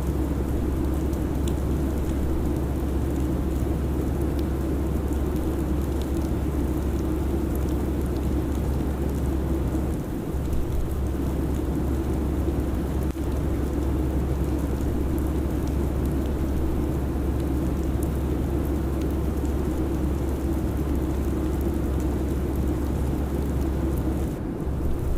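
Steady airliner cabin noise: an even low rumble under a broad rushing hiss, dipping briefly about ten seconds in and again near the end.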